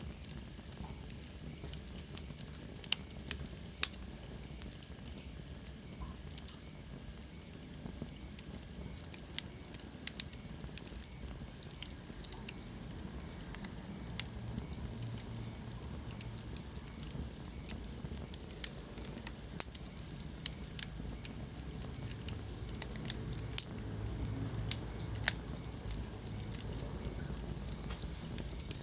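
Wood fire burning in a fireplace: a steady low rumble of flames with irregular sharp crackles and pops from the burning logs. A faint high whistle slides down in pitch a few seconds in.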